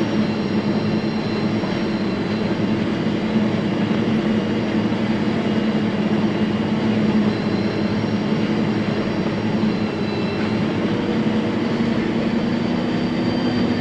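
John Deere self-propelled forage harvester heard from inside its cab while chopping corn: a steady, even machine hum with a faint high whine over it.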